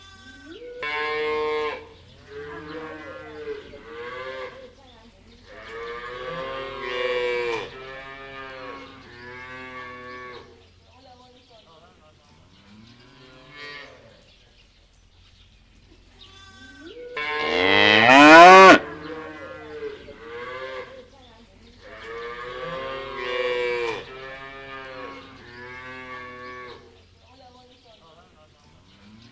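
Holstein cattle mooing in a barn: a run of calls with short gaps between them, the loudest about two-thirds of the way through, rising in pitch.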